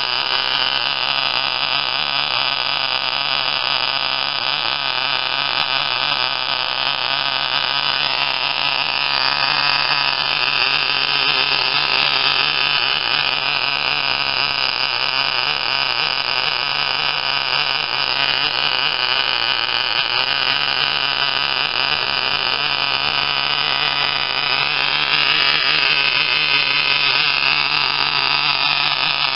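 A tiny .049 model glow engine running flat out: a loud, steady, high-pitched buzz whose pitch wavers a few times.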